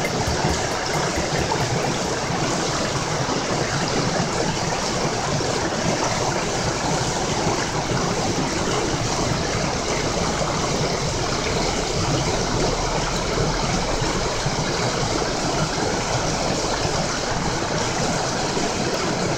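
Mountain stream flowing over rocks, a steady rushing of water with no change.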